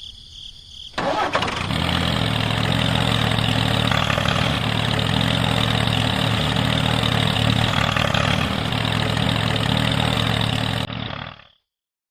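An engine starting up about a second in and then running steadily at a constant speed, cutting off suddenly near the end.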